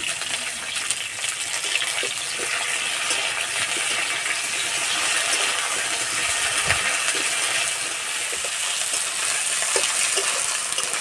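Potatoes, tomato and ginger paste sizzling in hot oil in an iron kadai, a steady hiss, with the flat metal spatula now and then scraping and clicking against the pan as it stirs.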